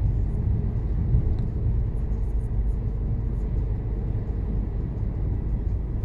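Mercedes-Benz Actros truck under way, a steady low rumble of engine and road noise heard from inside the cab.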